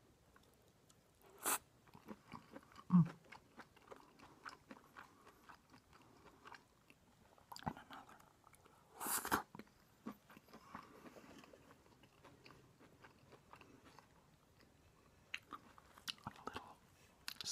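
Close-up chewing and biting of a grilled lobster salad sandwich: many small wet mouth clicks, with a few louder bites about a second and a half in, at three seconds, around nine seconds and near the end.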